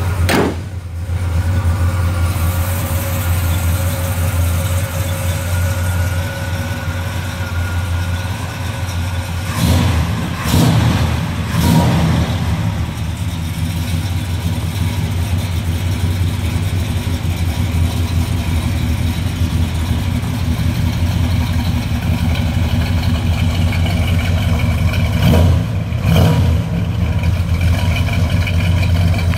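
1969 Chevrolet Chevelle SS V8 running at a steady idle, with short throttle blips about ten seconds in and again near the end.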